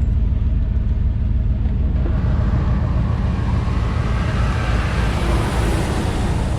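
A moving truck's engine and road noise: a steady low rumble, with a hiss that grows louder from about two seconds in.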